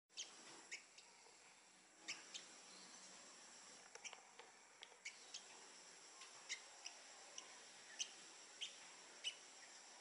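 Faint, short high chirps of a small bird, single notes repeated about every half second to a second.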